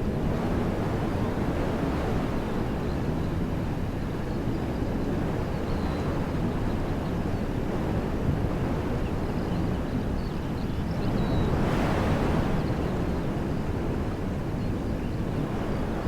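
Wind blowing through trees: a steady rush, with a stronger gust swelling and easing about three-quarters of the way through.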